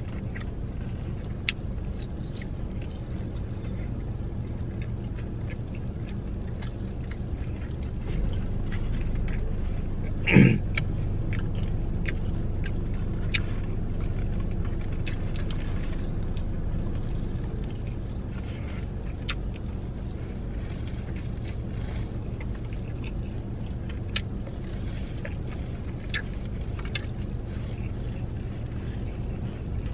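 A person chewing fried chicken close to the microphone, with scattered wet mouth clicks, over a steady low hum inside a car. About ten seconds in comes one brief louder sound that falls steeply in pitch.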